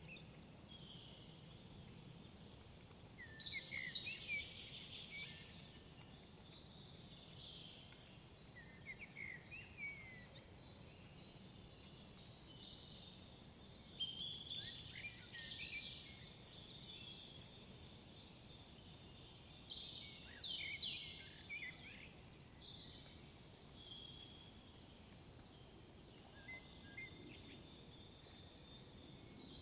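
Songbirds singing in woodland: a short high song phrase repeating about every five or six seconds, several of them ending in a quick rising trill, over a faint steady background hiss.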